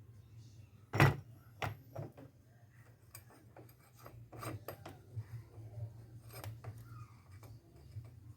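Metal starter-motor parts being handled and fitted together: a sharp knock about a second in, then scattered lighter clicks and taps, over a steady low hum.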